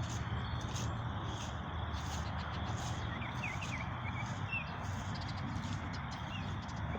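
Outdoor natural ambience: a steady rushing background with a run of short bird chirps around the middle, and a soft, regular high-pitched tapping about twice a second.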